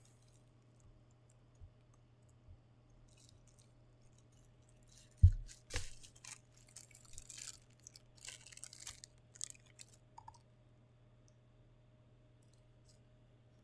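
A heavy thump about five seconds in, like an item being set down, then a few seconds of plastic packaging crinkling and rustling as it is handled.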